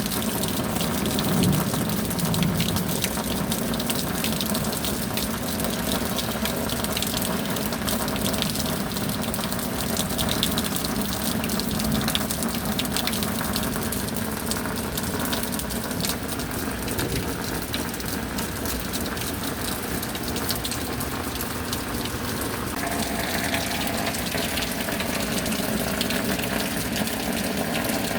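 Rain falling steadily: an even, dense wash of water noise flecked with many close drop hits, shifting slightly in tone about 23 seconds in.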